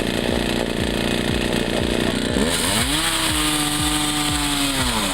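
Chainsaw set up as a fixed cutting station, running at high revs. About two and a half seconds in, its pitch drops and holds lower as the chain bogs into the wood, then climbs back near the end.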